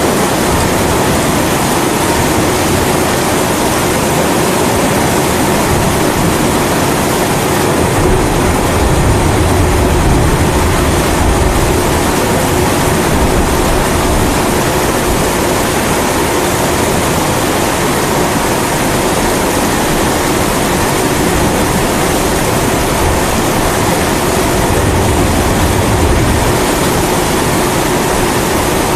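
Kerosene pressure stove (primus) burning steadily, mixed with the steady rush of rain. Two low rumbles of thunder swell up, about eight seconds in and again near the end.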